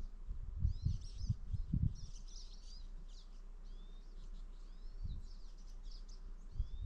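Small birds chirping, many quick high twittering notes in runs. A few low thumps come with them, loudest about a second in.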